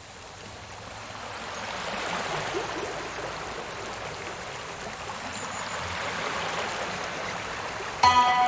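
Steady rain with running water, fading in over the first couple of seconds. Music with held notes starts suddenly just before the end.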